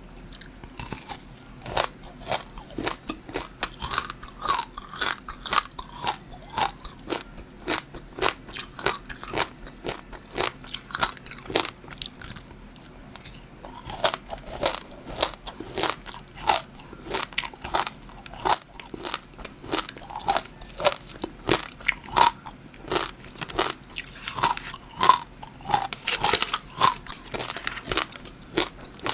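Close-miked eating sounds: crunchy bites and chewing, a quick run of sharp crackles a few times a second, with a short pause about twelve seconds in.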